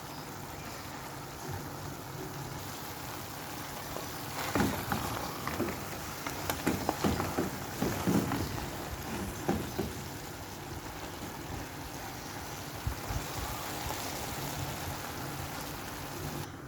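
Food sizzling steadily in a pan, with a run of knocks and clatter from a utensil against the pan in the middle.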